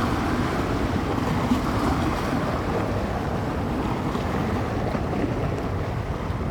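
Small bay waves washing on the shore under a strong, steady wind, with wind rumbling on the microphone; there is no single crash, just a continuous wash.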